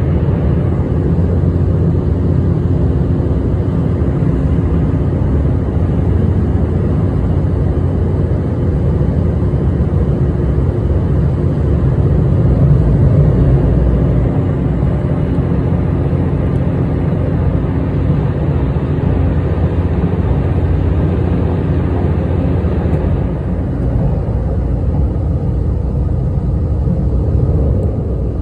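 Train running at speed over a steel truss bridge, heard from inside the passenger car: a steady, loud rumble of wheels and running gear with a low hum. The higher hiss eases a little near the end.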